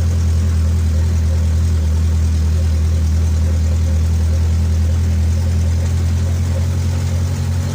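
Truck engine running steadily under way, a loud, even low drone that begins to pulse near the end.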